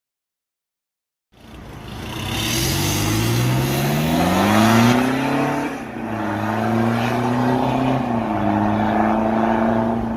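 Toyota Fortuner GR 2.8's four-cylinder turbodiesel running through an aftermarket stainless full-system exhaust with a remote-controlled valve. The exhaust note comes in about a second in, climbs in pitch for a few seconds, dips briefly past the middle, then holds steady.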